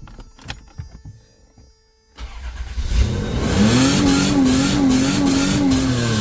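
A few light clicks, then a Toyota 4Runner's 3.4-litre V6 starts about two seconds in, the first start since a timing belt job. It is revved straight up and held bouncing on the rev limiter before the revs begin to drop near the end.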